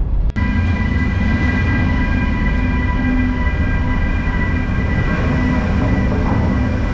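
Motorcycle riding at a steady cruising speed: a steady engine and road rumble with wind noise and a few constant whining tones, starting after a brief cut a moment in.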